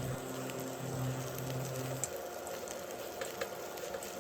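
An omelette frying in a pan as a spatula cuts it apart, with light scraping clicks over a soft sizzling hiss. A steady low hum cuts off about two seconds in.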